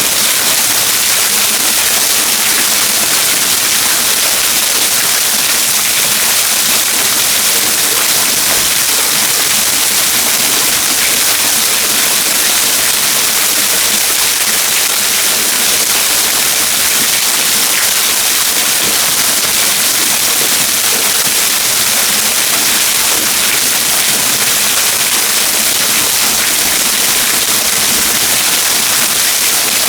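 Waterfall: a steady, loud rush of falling water that does not change, heaviest in its hiss.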